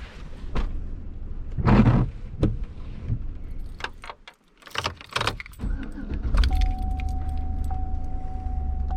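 Getting into a car: keys jangling and a series of clicks and knocks, then a car engine running with a steady low rumble from about six seconds in, with a thin steady tone over it.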